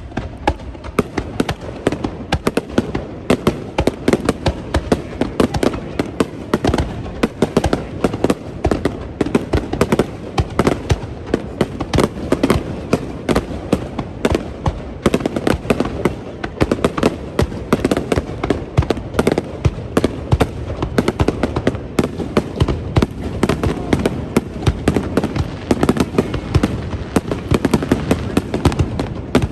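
Fireworks bursting in a dense barrage, several loud bangs a second without a break.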